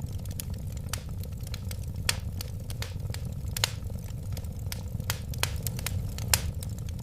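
Wood fire burning in a fireplace: a steady low roar of flames with irregular sharp crackles and pops of burning wood, a few louder snaps about two, three and a half, and six seconds in.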